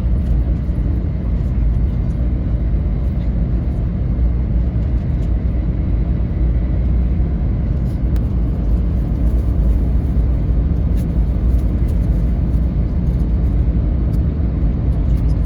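Steady low rumble of a Shinkansen bullet train running, heard from inside the carriage, with a few faint clicks.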